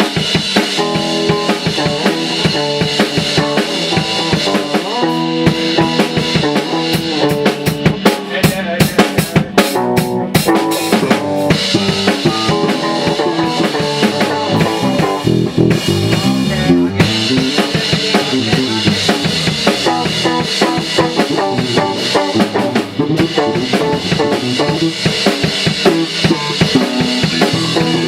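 Band playing a song at a rehearsal, led by a drum kit with bass drum and snare over pitched instruments, played loud and steady throughout.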